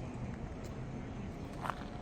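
Steady low rumble of street background with vehicles, broken by a faint click and then one short sharp click near the end.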